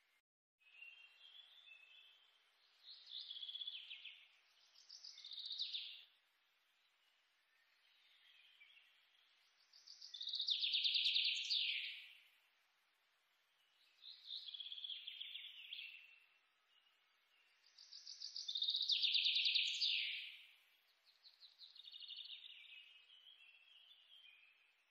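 Birds chirping in high, rapid trilled phrases of a second or two, coming in bursts every few seconds, with the two loudest about halfway through and near the end.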